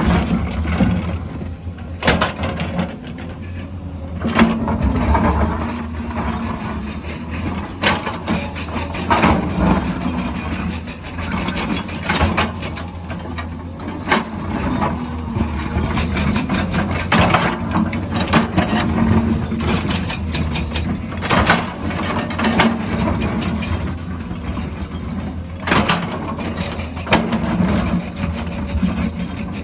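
Excavator working: a steady diesel engine drone with frequent irregular clanks and scrapes, as of the steel bucket and tracks striking rock and earth.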